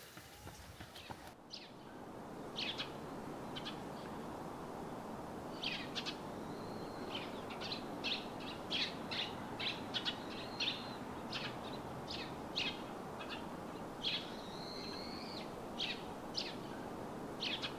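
Birds chirping with short, repeated high calls and a couple of longer whistled notes, over a steady background hiss of outdoor ambience.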